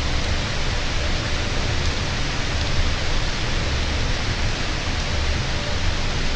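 Steady, even hiss of rain, with a low rumble that comes and goes underneath.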